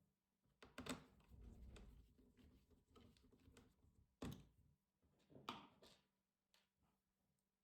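Faint handling sounds of a laptop being worked on: a few clicks and knocks, with a low rumble of parts being moved about a second in.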